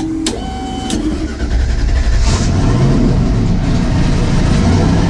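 Turbocharged 1978 Camaro drag car's engine being started: a couple of clicks and a short whine, then the engine catches about one and a half seconds in and keeps running with a loud low rumble.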